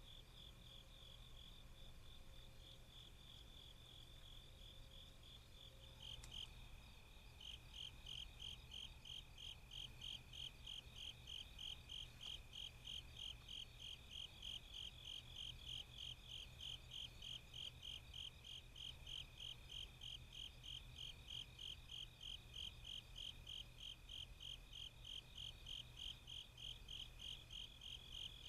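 Night insects calling: a steady high trill, joined about six seconds in by a nearer cricket chirping evenly, roughly two to three chirps a second.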